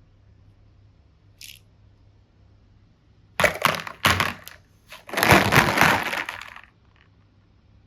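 Crackling, crunching handling noise in two bursts, about three and a half and five seconds in, after a faint click near the start.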